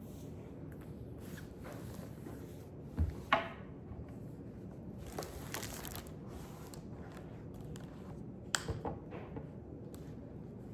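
Quiet room with a low steady background hiss and small handling sounds of a book and desk: two light knocks about three seconds in, a soft paper rustle a couple of seconds later, and a few quick clicks near the end.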